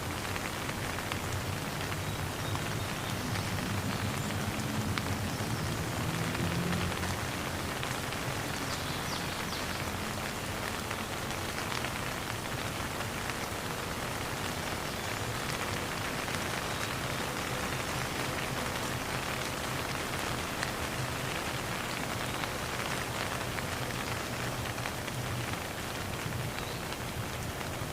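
Steady rain falling and pattering on a surface, an even hiss of many drops with no thunder. A faint low hum sits underneath.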